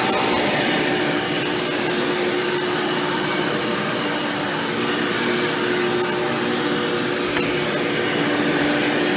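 Hoover Power Drive Supreme upright vacuum, fitted with an upgraded 20-blade fan impeller, running steadily while vacuuming, its motor giving a constant whine over the rush of air.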